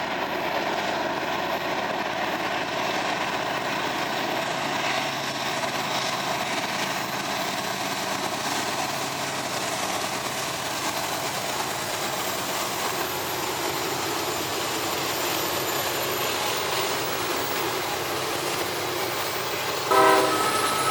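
Train rolling by on the rails, a steady rush of wheel and rail noise. About a second before the end a horn sounds suddenly and louder.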